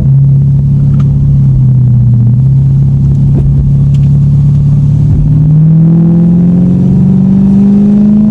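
Lexus car engine under load, holding a steady pitch and then rising slowly through the second half as the car accelerates in one gear.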